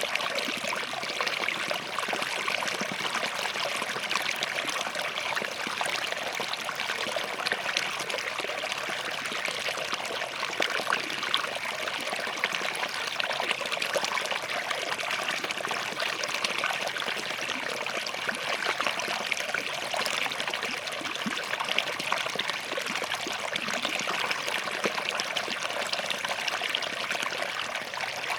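Shallow forest stream flowing and trickling over rocks, a steady splashing rush with fine bright gurgles.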